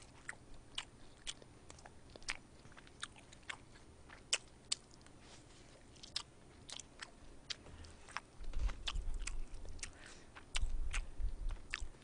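Close-miked chewing of a mouthful of stir-fried pork: many short wet clicks and smacks, with stretches of low rumble about two-thirds of the way in.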